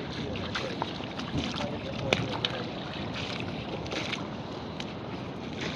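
Seawater washing and trickling among shoreline rocks, with scattered crackles and ticks, and wind buffeting the microphone.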